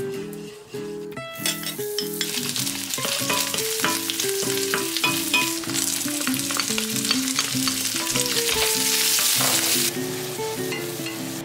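Garlic, ginger, scallion and pepper strips sizzling in hot lard in a wok, stir-fried fast over high heat with a spatula knocking and scraping against the pan. The sizzle starts about a second in, grows louder and cuts off near the end. A plucked background melody plays underneath.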